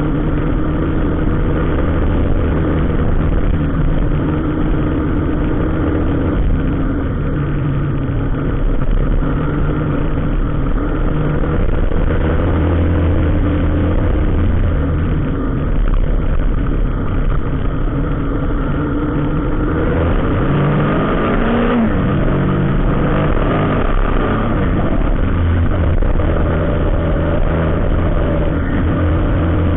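Motor vehicle engines running steadily in road traffic, with one engine revving up about twenty seconds in.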